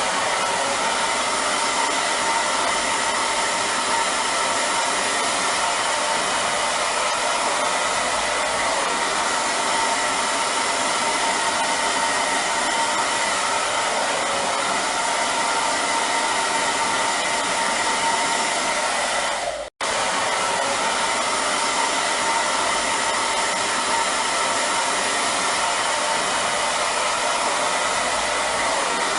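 Hair dryer running steadily: an even rush of blowing air with a faint whine. It cuts out for an instant about two-thirds of the way through, then carries on unchanged.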